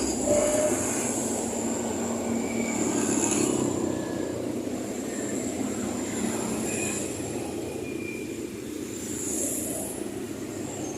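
Miniature RC dump truck's small electric motor and gearbox running, a steady rumble with a faint high whine that comes and goes every few seconds.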